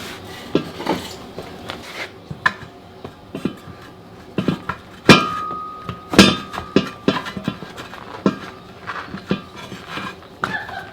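Tire irons clinking and knocking against a steel backhoe wheel rim as the tire bead is pried off, in irregular metal knocks. The two loudest come about five and six seconds in, the first leaving a brief ringing tone.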